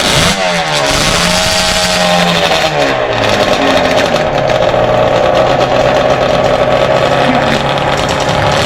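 A 1985 Suzuki RG500 Gamma square-four two-stroke engine running loud. It is revved up sharply at the start, holds, then drops back to a steady lower speed about three seconds in.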